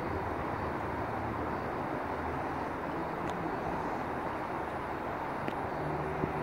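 Steady, distant rumble of a regional passenger train rolling slowly through a rail yard, with a few faint ticks. A steady hum joins in near the end.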